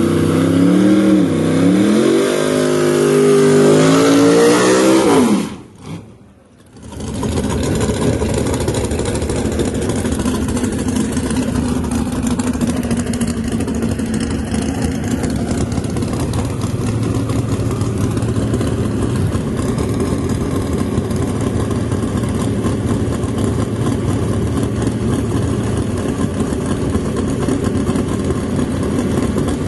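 Drag car engine revving hard, its pitch climbing for about five seconds before dropping away, then after a brief break a loud engine running steadily.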